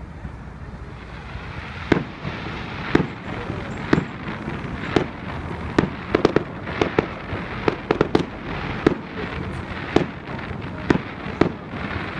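Fireworks going off: sharp bangs, starting about two seconds in and coming roughly once or twice a second, sometimes in quick clusters, over a steady rushing background.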